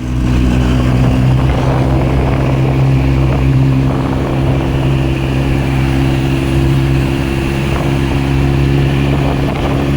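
Kawasaki Z900's inline-four engine with an aftermarket Akrapovic titanium slip-on exhaust, running loud at a steady engine speed with a constant pitch. A rushing noise, like wind over the bike, sits underneath.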